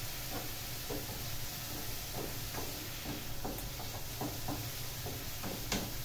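A wooden spoon stirring onions and garlic frying in a pan, with irregular light scrapes and knocks of the spoon against the pan over a faint, steady sizzle.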